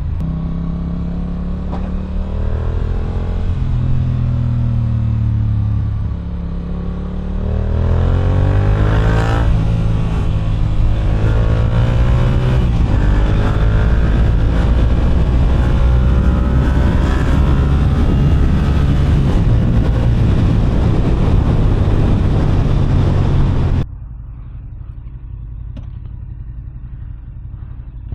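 Sport motorcycle engine heard from the rider's position, its pitch rising and falling with the throttle, then climbing about seven seconds in and held at higher revs under acceleration. Near the end it drops suddenly to a much quieter low running.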